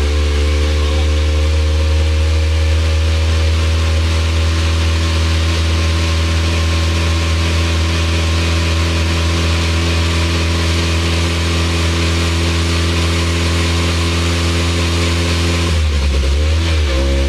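Car engine with a loud exhaust running at a steady speed, its pitch dipping briefly and coming back up near the end.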